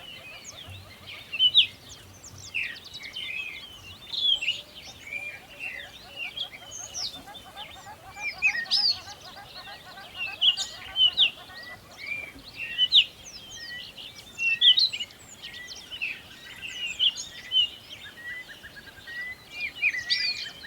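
A chorus of small songbirds chirping and whistling, many short, quick calls overlapping throughout, over a faint, fast, even trill lower in pitch.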